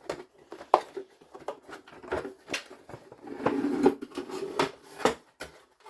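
Plastic parts of a vacuum cleaner's body being handled and pulled apart: scattered clicks and knocks, with a louder stretch of scraping and rubbing about three and a half seconds in.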